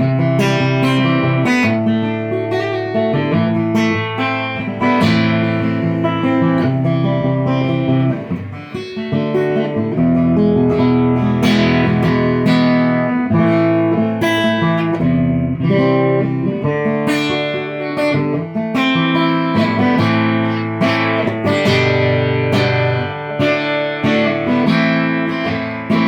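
Guitar playing an instrumental break of the song, plucked and strummed chords without singing.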